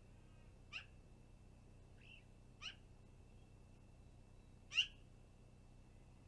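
Three short, harsh bird calls, each sliding downward in pitch, about two seconds apart, the last one loudest, with a couple of fainter calls between them.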